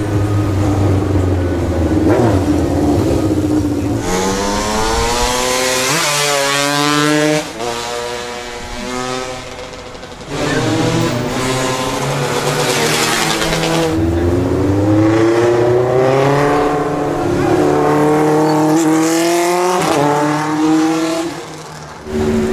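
Motorcycle engine accelerating hard through the gears. Its pitch climbs, drops sharply at each shift, then climbs again, several times over.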